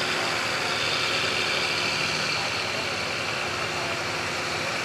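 Oliver 77 tractor's engine running steadily.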